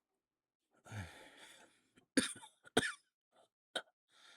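A man lets out a heavy breath, then coughs twice sharply, followed by a short click and another heavy breath near the end.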